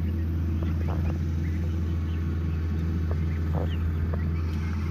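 Lawn mower engine running steadily at a distance, an even low drone, with a few short faint bird chirps over it.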